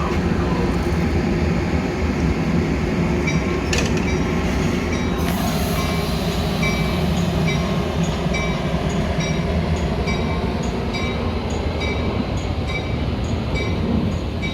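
Metra commuter train rumbling steadily at the platform while a bell rings over and over, about once every 0.6 seconds, starting about three seconds in. A sharp knock sounds about four seconds in, followed by a brief hiss.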